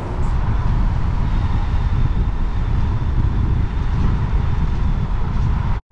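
Wind buffeting the microphone on a Kaabo Wolf King GT electric scooter ridden at about 42 mph, a steady heavy low rumble of wind and road noise with a faint steady whine above it. It cuts off abruptly near the end.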